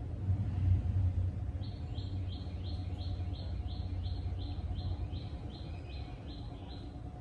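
A bird calling: a long run of short, identical high notes, about three a second, lasting some five seconds, over a steady low rumble.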